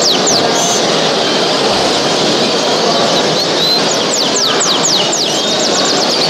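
Many small caged show birds chirping in runs of quick, falling calls over a steady background din.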